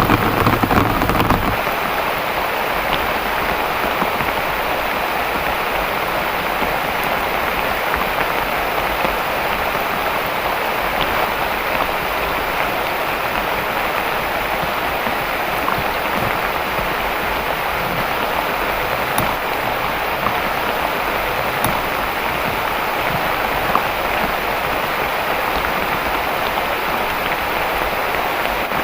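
Heavy rain falling steadily in an even, dense hiss, with the tail of a low thunder rumble dying away in the first second or two.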